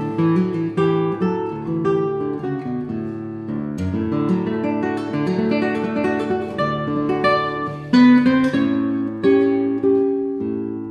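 Acoustic guitar music: a run of plucked and strummed notes, with a strong strummed chord about eight seconds in.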